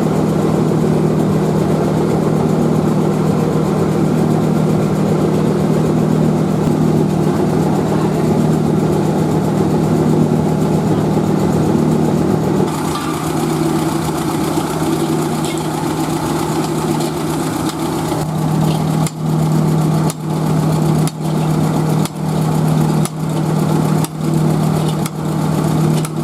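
Steady hum of running machinery with a constant low drone. About halfway through, a hiss joins it. In the last seven seconds the sound dips regularly, about once a second.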